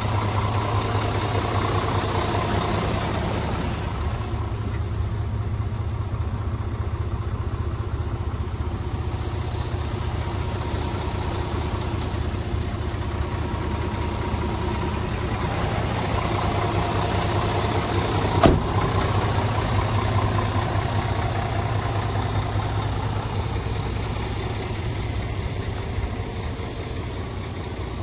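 Scania P370 truck's diesel engine idling steadily, with a single sharp click about two-thirds of the way through.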